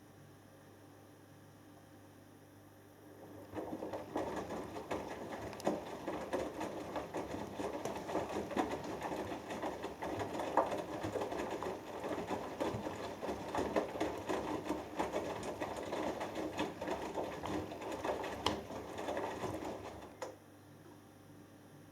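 Hoover Dynamic Next front-loading washing machine turning its drum during the main wash: the wet cotton load and water churn with many small rattling clicks over a motor hum. The drum starts turning about three and a half seconds in and stops shortly before the end, leaving only a low hum.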